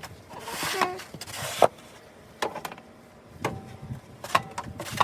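Snow shovel clearing a driveway: scraping swishes as snow is pushed and scooped, then sharp knocks of the blade about once a second.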